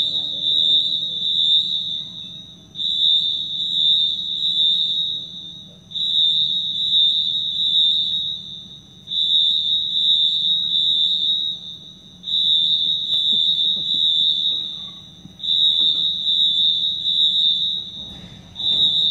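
An electronic alarm sounding a high, rough, steady tone in repeated blasts of about two and a half seconds with short gaps, about one every three seconds. Each blast starts loud and fades, over a low steady hum.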